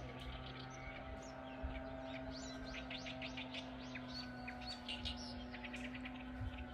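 Small songbirds chirping, a busy mix of short, quick high notes that grows denser about two seconds in. A steady low hum runs underneath.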